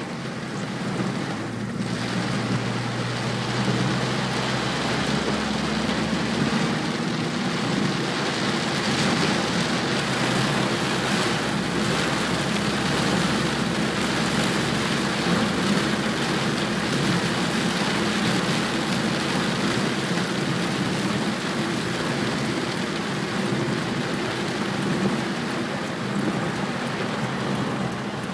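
Heavy rain beating steadily on a car's roof and windscreen, heard from inside the cabin, over the low, even hum of the car and its tyres on the wet road.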